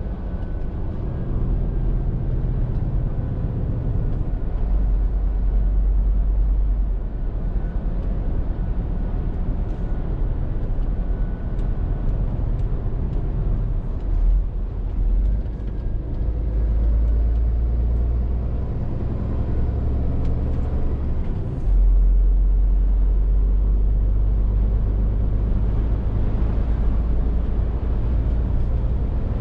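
Scania R450 lorry's 13-litre straight-six diesel engine running on the move, a steady low drone with road rumble. The engine note dips briefly about halfway through, then steps up louder and holds about three-quarters of the way through.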